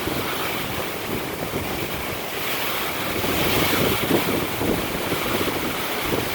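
Strong storm wind from a line of gusty showers, rushing steadily and buffeting the microphone.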